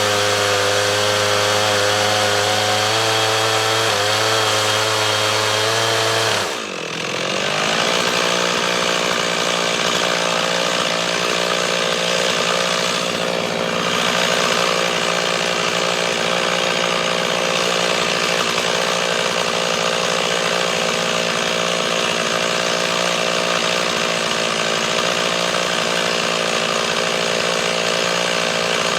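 Stihl MS 391 two-stroke chainsaw on a chainsaw mill, running at high revs while ripping a cut lengthwise through a green cedar log. About six and a half seconds in, the engine note briefly drops and dips in level, then settles into a steady run again.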